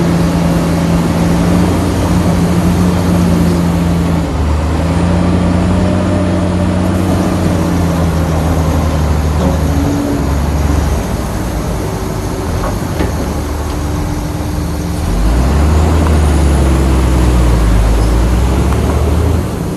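Bulldozer's diesel engine working under load, its pitch dipping and rising again a few times as the load changes, with a few faint clanks.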